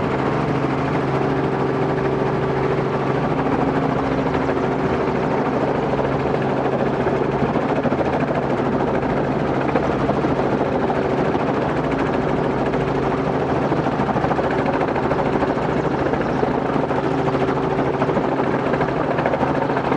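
Robinson R44 helicopter running steadily, its engine and rotor making a constant drone with a few fixed tones.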